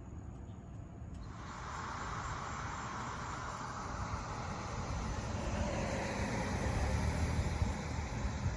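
A vehicle comes in about a second in and grows steadily louder, with a deep rumble building toward the end. Faint insect chirping is heard before it.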